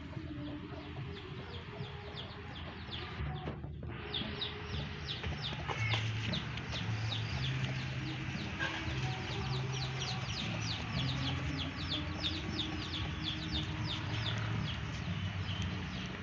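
Chickens calling, with a fast run of short high peeps, several a second, starting about four seconds in.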